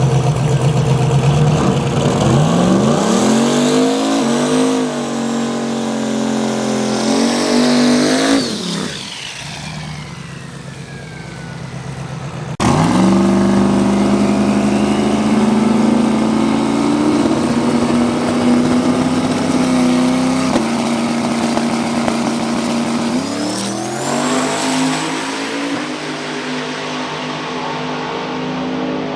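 Drag race car engine at full throttle, its pitch climbing in steps as it shifts up through the gears, then dropping away as it lifts off about eight seconds in. After a sudden change, another engine runs loud at high revs, climbing again near the end with a high rising whine.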